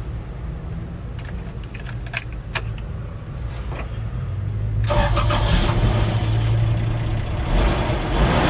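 Keys clicking in the ignition of a Toyota Land Cruiser FJ45, then about five seconds in its 2F straight-six petrol engine starts and runs, heard from inside the cab.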